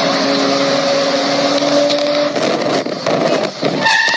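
Sports car engine running loudly at a steady pitch for about two seconds, with road or wind noise. A higher steady engine note comes in near the end.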